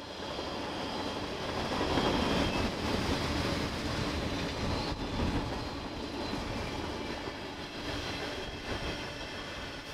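Freight train rolling past at speed: steel wheels rumbling and clattering on the rails as tank cars and covered hoppers go by, with a faint high squeal from the wheels.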